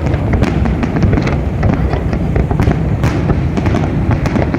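Fireworks display: many rapid bangs and crackles, one after another, over a continuous low rumble.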